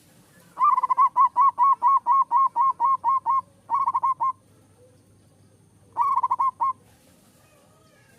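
Zebra dove (perkutut) cooing. It gives a quick, even run of about a dozen staccato notes, then a short run of four, and a few more notes about six seconds in.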